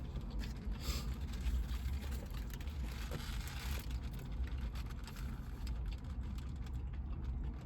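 Eating sounds: chewing with soft rustling and small clicks, over a low steady rumble.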